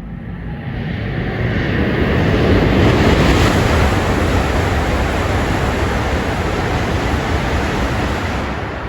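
Shinkansen bullet train passing through the station at speed: a loud rush of air and wheel noise that builds over the first few seconds, holds, then fades near the end.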